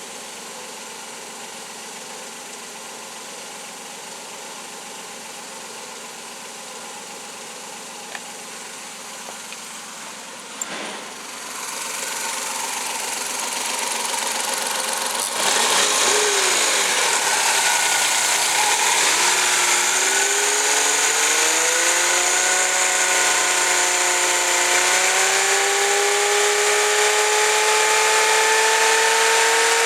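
Suzuki K6A three-cylinder engine running: a quiet steady hum for about ten seconds, then a click, after which it grows louder, jumps up sharply about halfway through, and its pitch climbs slowly in steps as the engine speeds up.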